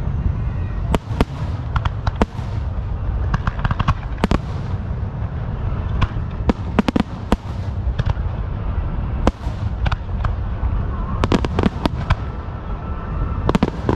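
Fireworks going off: many sharp bangs and pops at irregular intervals, some followed by a brief crackling hiss, over a steady low rumble.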